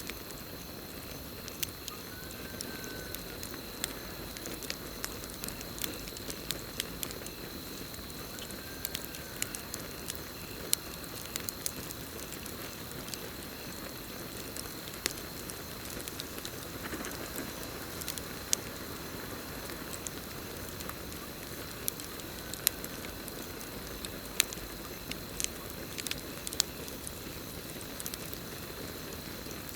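Campfire burning with a steady hiss and frequent sharp crackles and pops, over a continuous high-pitched cricket trill.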